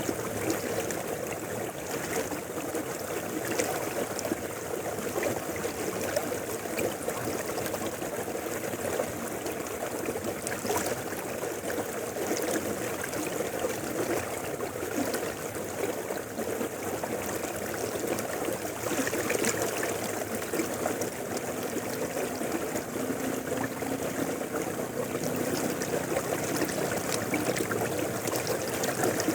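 Mountain river flowing: a steady rush of water with many small, irregular splashes.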